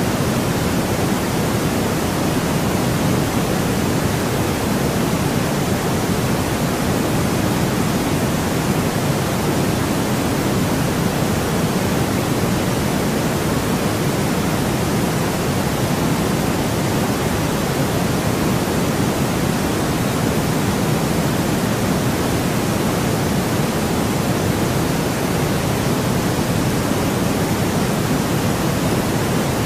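Steady, unchanging white noise: an even hiss with most of its weight in the lower range.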